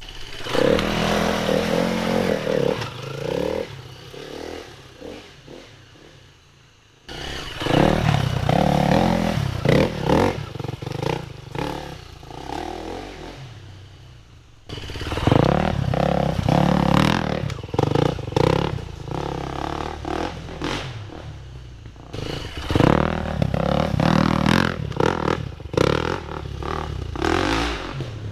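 KTM 350 EXC-F dirt bike's single-cylinder four-stroke engine revving and accelerating, in three separate takes cut one after another. Each take starts loud and fades as the bike pulls away.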